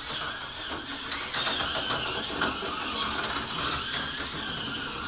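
Small electric motors of model vehicles running on a slot car and train layout, a steady whirring whine that rises and falls a little with speed.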